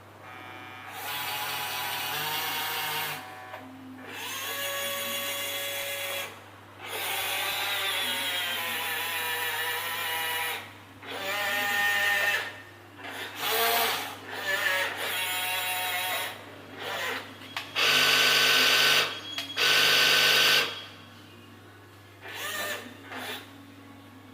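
Small electric motors of a remote-control toy fire truck whining in a series of short runs, each one to three seconds long, stopping and starting again.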